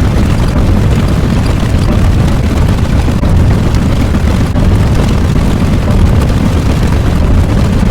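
A loud, steady deep rumble, a roaring sound effect with no breaks.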